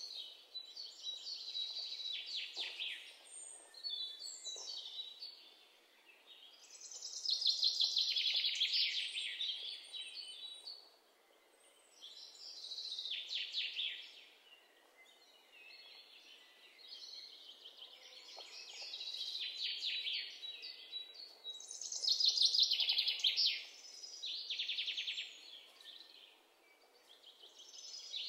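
Songbird singing: high trilled phrases of one to three seconds each, repeating with short pauses between them.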